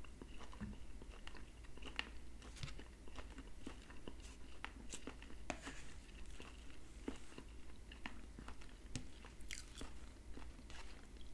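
Faint close-miked eating sounds: chewing and mouth noises of baked salmon and onions, with scattered light clicks as a fork works at the food on the plate.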